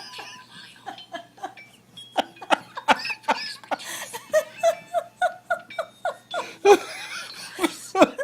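A person laughing: a quick run of short, evenly spaced "ha" sounds, louder near the end.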